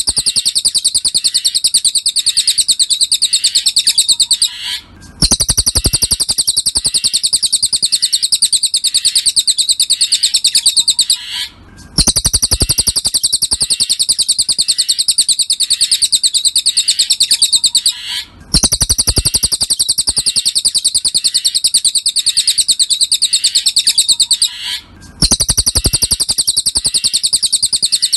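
Cililin birdsong recording for masteran: a fast, high, unbroken trill of rapid notes in phrases about six seconds long, each separated by a brief pause.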